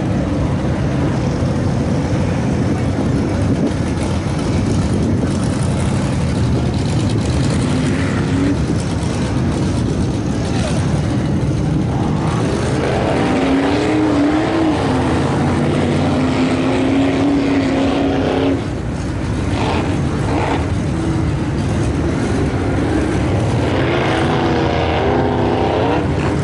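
Chevy Blazer mud truck's V8 engine running hard. Its note climbs and falls with the revs in the second half.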